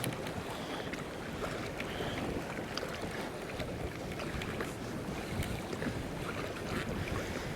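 Wind buffeting the microphone and choppy sea water lapping and slapping against a kayak hull, a steady rushing noise with scattered light ticks and splashes.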